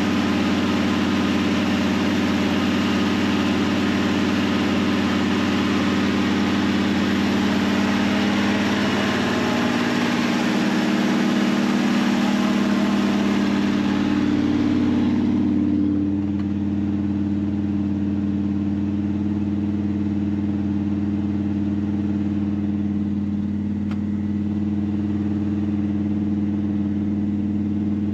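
Dodge Dart's 340 V8 idling steadily, warming up from a cold start. A hiss over the engine stops about halfway through, leaving the low even idle.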